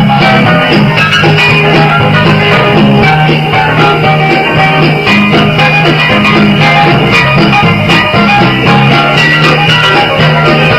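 Instrumental break of a country song: a band with electric guitar over a steady bass line and beat.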